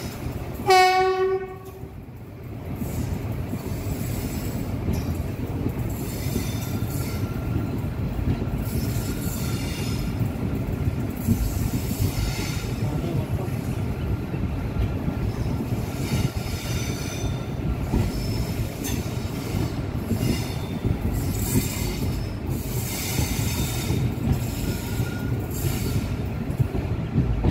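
A train horn blows once, briefly, about a second in; then a train runs past with a steady rumble of wheels on the rails and intermittent high-pitched wheel squeal.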